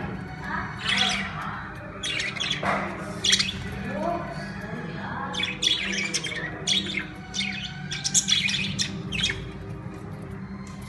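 Budgerigars chirping and squawking in quick, irregular calls, over a steady low hum.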